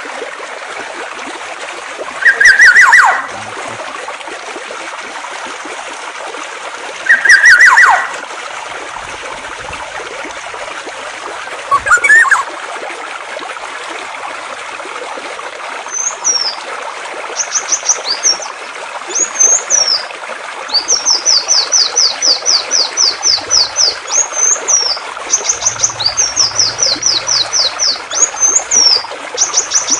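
Birdsong over steady trickling stream water. Two loud calls, each about a second long with a falling sweep, come a few seconds apart. After a brief call near the middle, a different bird starts a high, rapid song of fast repeated notes and trills that carries on to the end.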